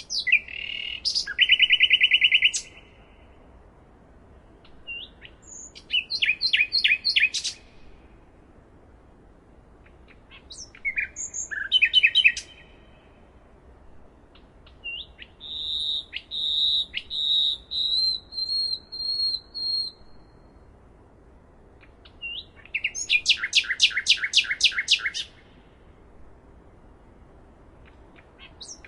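Nightingale singing in separate phrases a few seconds apart, five in all, made of fast repeated notes and trills. The middle phrase is a longer run of repeated high whistled notes.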